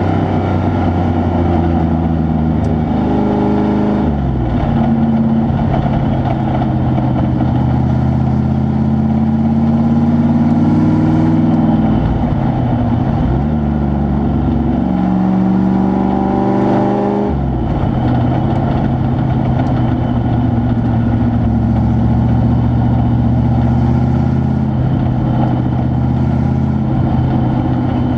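Truck engine running continuously, its pitch rising and falling several times as it speeds up and slows.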